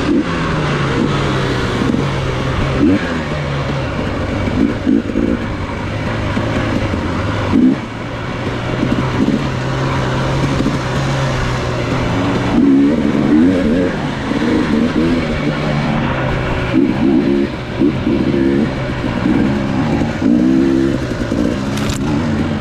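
Dirt bike engine running under way, its pitch rising and falling again and again with the throttle.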